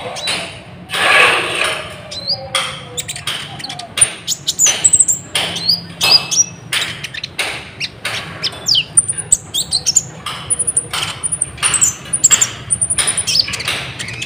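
Short, high bird chirps repeating over a run of sharp clicks and taps.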